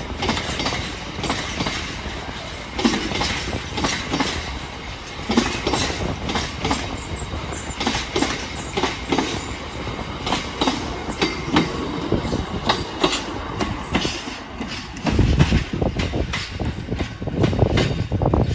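A train rolling past, its wheels clicking irregularly over rail joints and points, with a deeper, louder rumble in the last few seconds.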